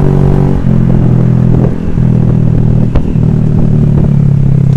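Honda Vario scooter's single-cylinder engine running on the move, its note shifting pitch a few times, with one sharp knock about three seconds in.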